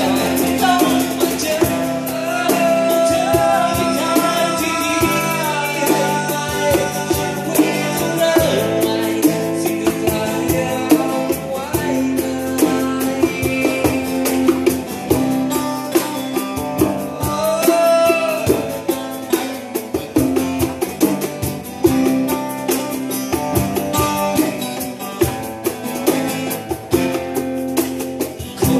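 Thai rock song played by a full band, with guitars, bass and drum kit under a lead melody that slides and bends in pitch.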